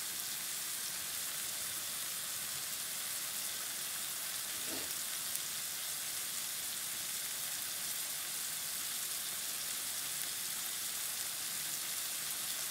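Diced chicken breast sizzling steadily in vegetable oil in a nonstick frying pan over medium-high heat, an even, unbroken hiss.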